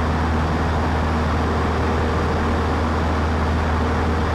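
Cessna 152's four-cylinder Lycoming engine and propeller running steadily in flight, heard from inside the cockpit as a constant low drone with hiss.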